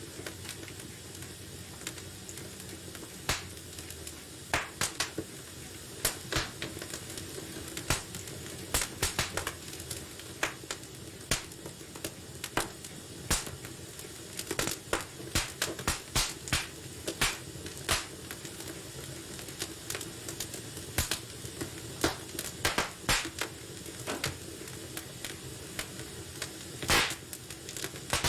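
Wood fire burning in a fireplace: a steady low hiss with frequent sharp, irregular pops and snaps of crackling logs.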